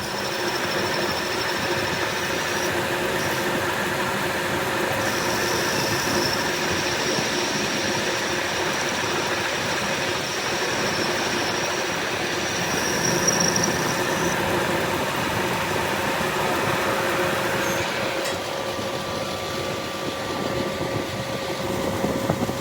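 Metal lathe running steadily: a continuous machine hum with a thin high whine that drops out briefly about three seconds in, then returns until about fourteen seconds in.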